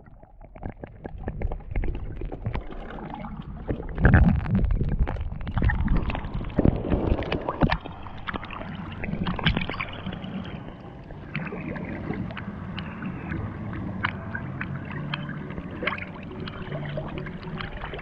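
Water sloshing and splashing around a small boat on the river, with many irregular knocks and clicks; the splashing is loudest about four seconds in and again around six to seven seconds in.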